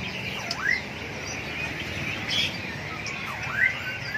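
Many caged birds chirping together, with two louder calls that dip and then sweep up in pitch, about a second in and again near the end.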